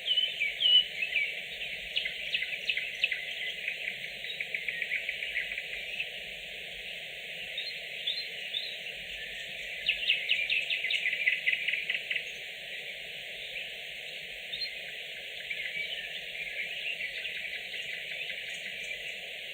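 Nightingale singing: bursts of rapid repeated notes and trills mixed with short whistled notes, loudest about two seconds in and again about ten seconds in, over a steady background hiss.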